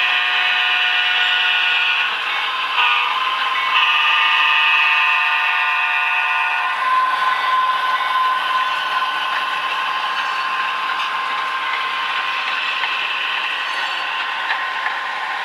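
Simulated diesel air horn from an HO-scale Conrail SD70MAC's Tsunami sound decoder, played through the model's small speaker: a long blast, a short one about three seconds in, then another long blast that stops about seven seconds in. After that the model's sound runs on as a steady hum with an even rushing noise.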